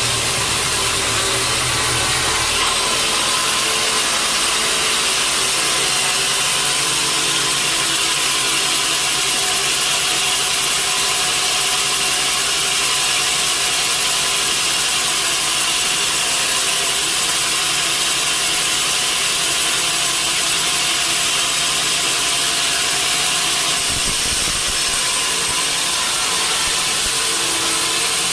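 Sawmill saw cutting steadily through a log, a constant hissing rasp of the blade in the wood. A low rumble sounds under it for the first few seconds and again briefly near the end.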